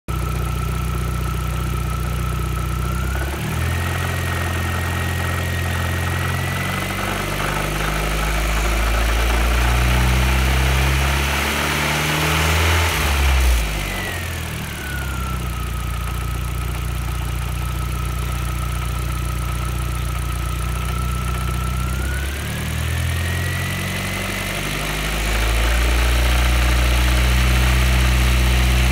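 Audi B5 A4's 1.8T turbocharged inline-four running with a knock, which the owner calls engine knocking. The engine speeds up about three seconds in, drops back about fourteen seconds in and rises again near the end, with a high whine rising and falling along with it.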